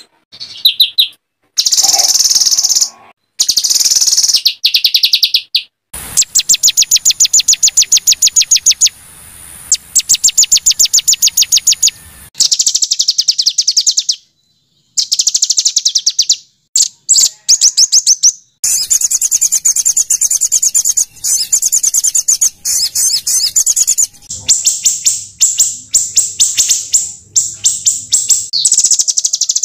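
Small songbird singing high-pitched, harsh rapid-fire phrases: long runs of fast, evenly repeated notes, about ten a second, broken by short pauses.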